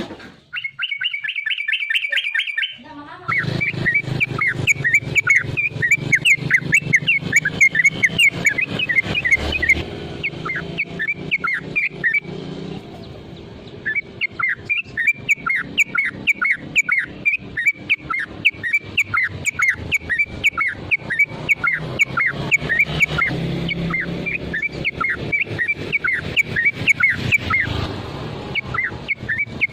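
Yellow-vented bulbul (trucukan) giving its fighting call, a rapid run of short sharp chirping notes, several a second. The run breaks off briefly about halfway through, then resumes, over a low steady hum.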